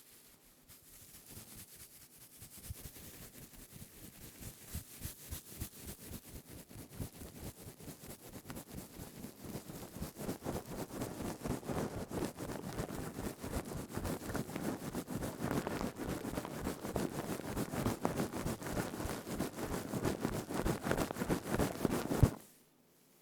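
Stainless steel scouring pad rubbed and squeezed close to the microphone: rapid crinkly scratching strokes, several a second, growing steadily louder. It stops abruptly near the end with one sharp louder crackle.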